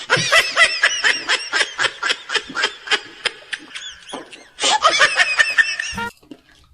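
A man laughing in a long run of high-pitched giggles, several a second, that breaks off about six seconds in.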